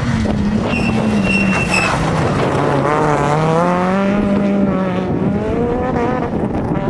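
Rally car engine at full throttle, its pitch falling and rising as it changes gear and revs through a corner, with a brief high-pitched tone about a second in.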